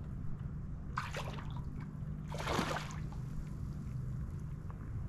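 Hooked snook splashing at the water's surface during the fight: two short splashes, about a second in and again a little past halfway, over a steady low hum.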